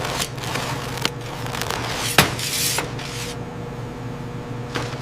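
Production-line machinery humming steadily, with scattered clinks and clatter; the loudest is a sharp clack about two seconds in, followed by a brief hiss.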